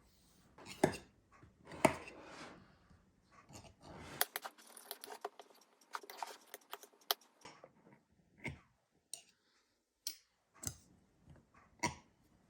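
Scattered clicks, taps and light scraping of a knife against a pie dish and board while puff pastry is trimmed off the edge of a pie.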